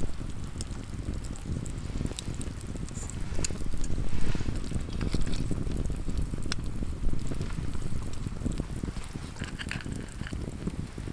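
Wind rumbling on the microphone, with scattered small clicks through it.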